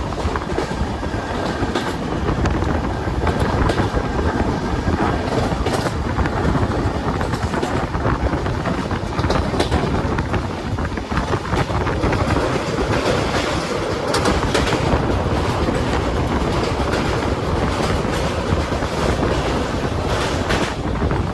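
Express train running on the rails: a steady loud rumble with the wheels clattering over rail joints.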